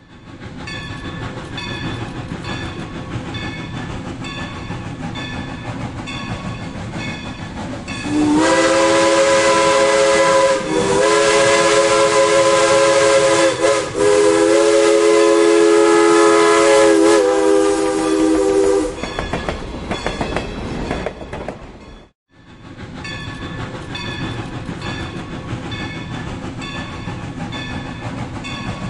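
Steam locomotive passing with a steady rhythmic clatter. About eight seconds in, its chime whistle sounds a loud chord for about ten seconds, dipping briefly twice. The clatter fades, cuts out for a moment, and resumes.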